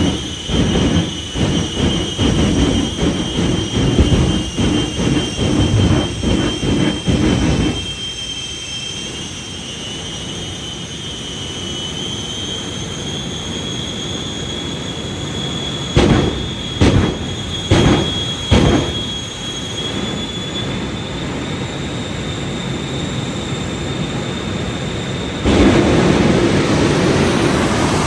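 The Shockwave jet truck's three Westinghouse J34 turbojet engines running: a steady high whine that climbs slowly in pitch over a heavy rumble. The rumble pulses rapidly for about the first eight seconds, then drops back. A few sharp bangs come about two-thirds of the way through, and the rumble swells again near the end.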